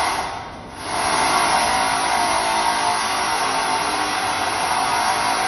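Steady mechanical running noise, like an engine or machine, with a brief dip about half a second in before it resumes at an even level.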